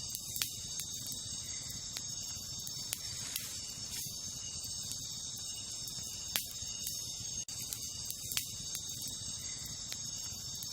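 Wood campfire crackling, with irregular sharp pops and snaps; the loudest comes a little past six seconds. Under it runs a steady high chirring of night insects.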